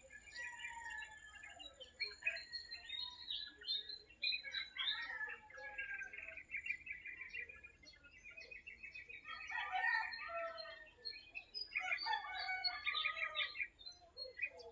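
Many small birds chirping and trilling at once in a busy dawn chorus of overlapping calls.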